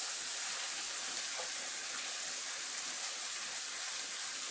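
Potatoes and spice paste sizzling steadily in a frying pan as boiled figs are tipped in.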